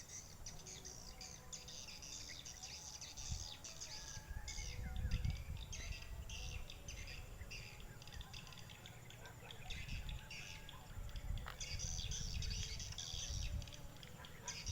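Many quick, overlapping high-pitched swiftlet chirps and twitters, both from a handphone playing a swiftlet call recording to lure the birds and from the swiftlets gathering to it, over a low rumble.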